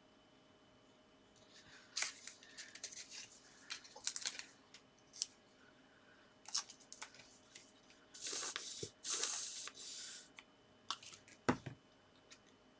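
Paper and card being handled on a craft table: scattered light clicks and rustles, two longer rubbing or peeling sounds a little past the middle, and a single knock near the end.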